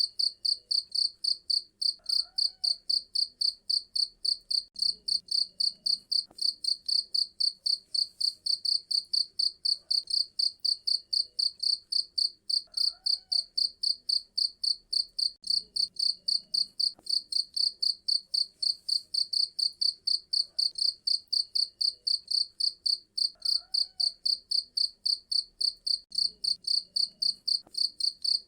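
Cricket chirping steadily, a rapid train of loud high-pitched pulses at about four a second, with faint lower chirps in the background every few seconds.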